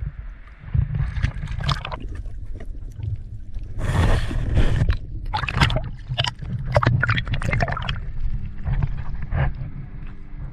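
Sea water splashing and sloshing around the microphone while swimming, with a low rumble and irregular knocks. A louder splash comes about four seconds in.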